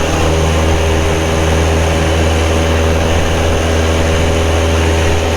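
Carbon Cub's piston engine and propeller running steadily at full power for a touch-and-go takeoff, a constant drone with a strong low hum.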